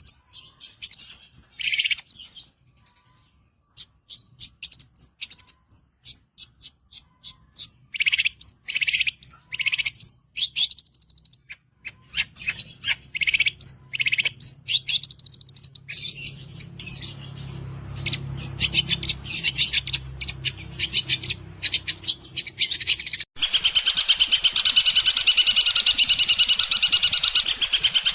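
Long-tailed shrike (cendet) singing: quick phrases of sharp, high chirping notes broken by short gaps. Near the end this turns into an unbroken, fast rapid-fire run of notes, the 'tembakan' fill prized in competition birds.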